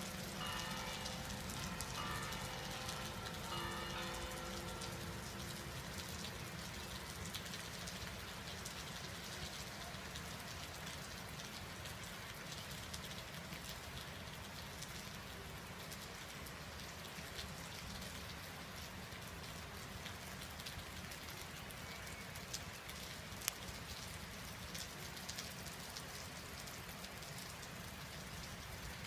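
Steady rain falling, an even hiss throughout. Faint ringing tones sound through it during the first few seconds, and there is one sharp tick about 23 seconds in.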